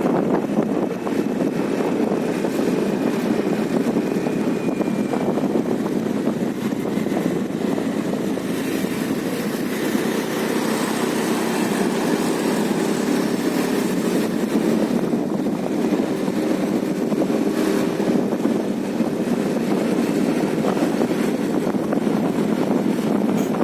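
Steady rushing of a moving vehicle's engine and road noise, with wind buffeting the microphone.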